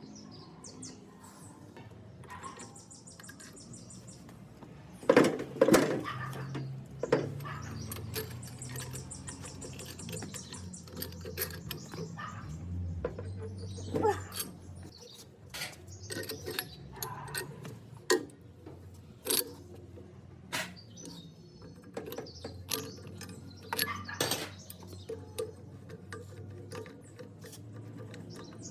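Metal parts and hand tools being handled during a starter-motor repair: scattered clinks and knocks, loudest in a cluster about five seconds in, with two stretches of rapid faint ticking.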